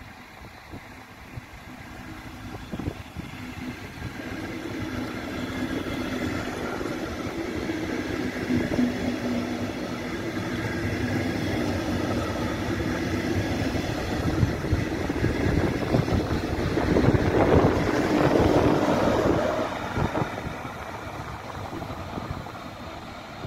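Red DB Regio double-deck push-pull train approaching and passing through the station. The rumble of wheels on rail and a steady hum grow louder, peak about three quarters of the way in, then fade as it moves off.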